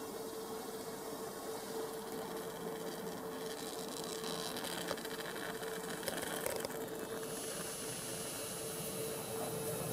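Stadler FLIRT passenger train approaching from a distance: a steady hiss with a constant tone under it, growing a little louder near the end.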